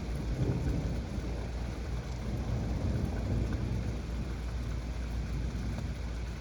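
Heavy rain falling steadily during a thunderstorm over a continuous low rumble.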